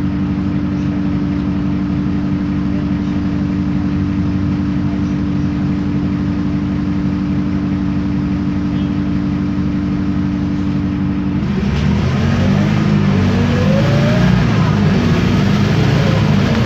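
Isobus City 1200 bus's MAN D0836 LOH diesel engine running at a steady pitch, then about two thirds of the way through it pulls away and accelerates, louder, with rising whines from the ZF Ecomat automatic gearbox and the differential.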